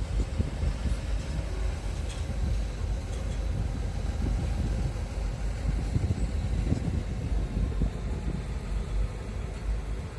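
Steady low rumble of a boat's engine with wind buffeting the microphone.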